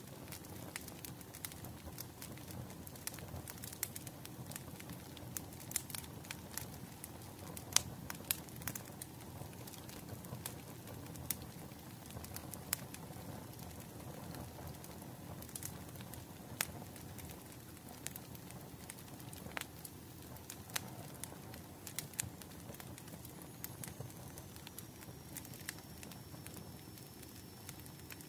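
Bonfire crackling: a steady low rumble of burning wood with frequent sharp, irregular pops and snaps.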